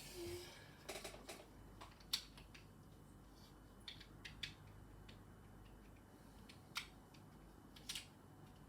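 LEGO bricks being handled and pressed together: a few faint, sparse plastic clicks and taps, the loudest about two seconds in.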